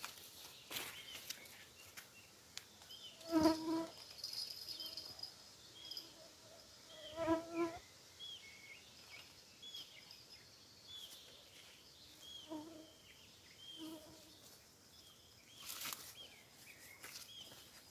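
Faint evening insect sound, buzzing and chirping as mosquitoes and crickets do, with a few short low calls and, near the end, a brief noise.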